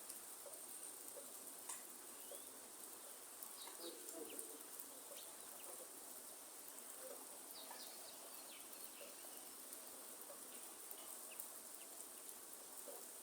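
Faint rainforest ambience: a steady hiss of light rain with a continuous high-pitched insect drone, and scattered short bird chirps throughout.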